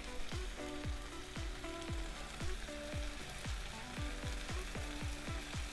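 Chicken breasts searing in a hot pan, sizzling steadily, under background music with a regular beat.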